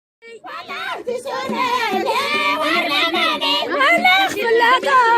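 Women's voices singing an Ait Baamrane Amazigh folk song in a group, with regular naqous percussion beats underneath; the music starts just after the beginning.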